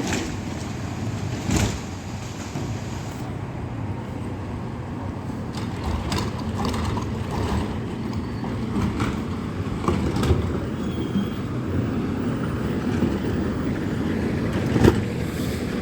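Heil Rapid Rail automated side-loader garbage truck running steadily, with a few sharp knocks: one about a second and a half in, one about ten seconds in, and a loud one near the end.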